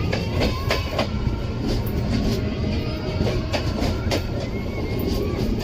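Humsafar Express train running along the track: a steady rumble with irregular wheel clicks and knocks as it rolls over the rail joints.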